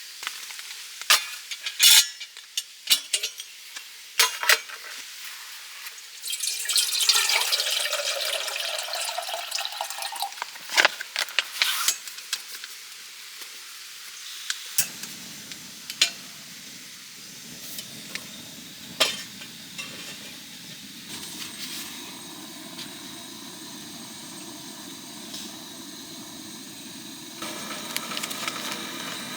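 Camp cooking sounds: sharp clinks and taps of utensils against pots and dishes, with a louder stretch of sizzling or hissing a few seconds in. Over the second half a steady low hiss runs under occasional light ticks.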